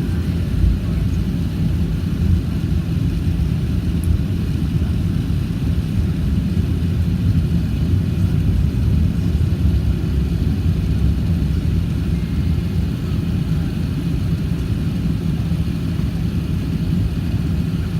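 Steady low rumble with a low droning hum that holds even, with no sudden events.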